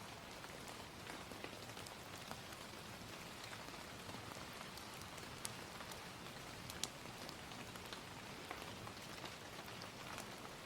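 Steady gentle rain, with a scattering of sharp pops from a crackling fire, the loudest two about midway.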